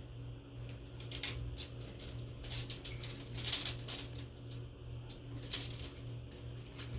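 Light rustling and scattered small clicks of a head gasket and engine parts being handled during a top-end rebuild, over a steady low hum.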